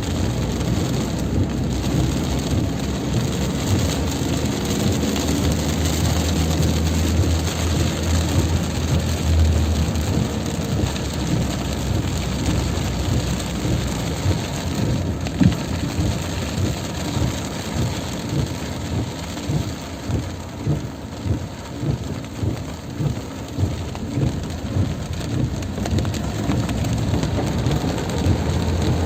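Heavy rain pouring steadily, with a low rumble rising for a few seconds near the start and again at the end. In the second half a quick regular pulsing, about one and a half beats a second, runs under the rain for several seconds.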